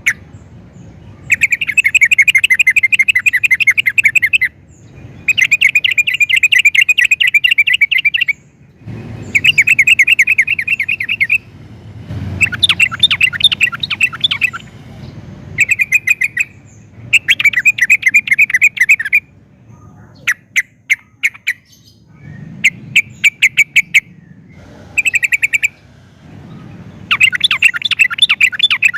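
Yellow-vented bulbul (trucukan) singing actively: phrase after phrase of fast, chattering runs of notes, each a second or three long, with short pauses between.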